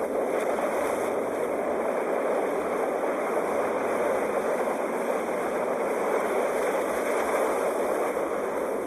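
Sea waves: a steady, even rush of surf.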